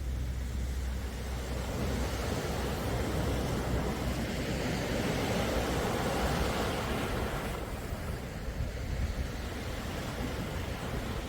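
Sea waves on a calm sea: one surge of surf swells about two seconds in and falls away after about seven seconds, over a steady low rumble.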